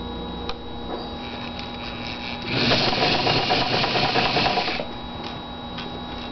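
Electric sewing machine stitching fabric: a run of fast stitching lasting about two seconds from about two and a half seconds in, with quieter stretches and a few light clicks around it.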